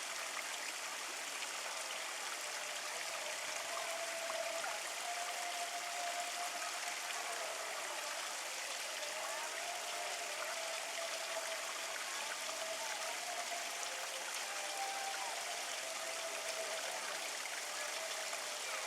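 Steady rush of running water, with a faint wavering hum underneath.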